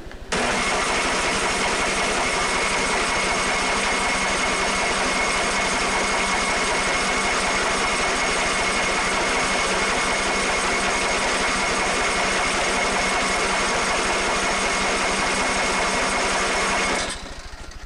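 Snowblower's electric starter cranking the engine in one long, steady run of about seventeen seconds without the engine catching, cutting off suddenly near the end. The owner takes the failure to start for fuel not getting to the engine.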